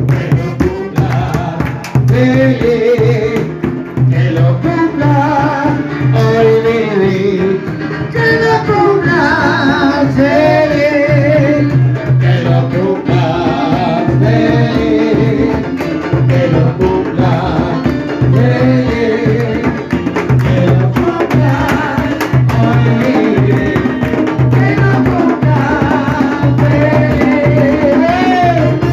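Candombe music: singing over the tambor drums, with low drum strokes keeping a steady repeating beat under the voice.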